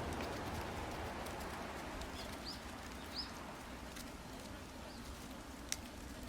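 Wood campfire crackling, with a few sharp pops, the clearest near the end. Two short rising bird chirps come about two and three seconds in, over a low rushing noise that dies away.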